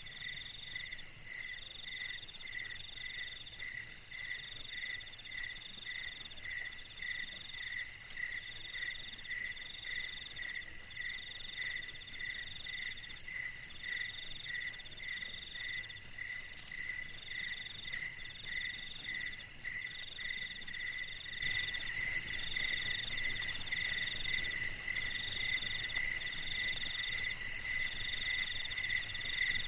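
Chorus of crickets and other insects: several steady, pulsing trills at different pitches sounding together, getting louder about two-thirds of the way through.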